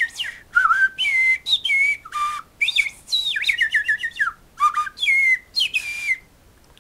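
A person finger-whistling an imitation of a Eurasian blackbird's song: a string of short, warbling phrases with quick pitch slides and trills, stopping near the end.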